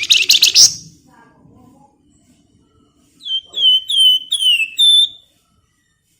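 Songbird known in Indonesia as the flamboyan singing: a dense, rapid burst of chattering notes in the first second, then after a pause a run of about five quick, downward-sliding whistled notes lasting about two seconds.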